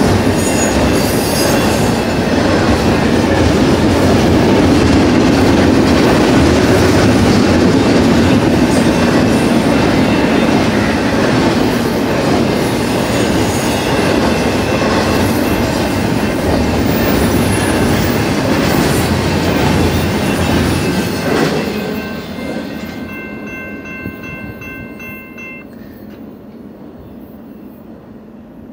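Double-stack intermodal well cars of a BNSF freight train running past on the rails, a loud steady wheel noise that drops away about three-quarters of the way through as the end of the train clears. The grade-crossing bell then keeps dinging for a few seconds and stops as the gates go up.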